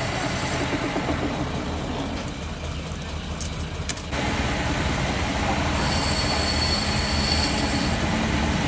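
Workshop machinery running with a steady mechanical din. A sharp click comes just before the midpoint, the machine gets louder after it, and a high steady whine joins about six seconds in.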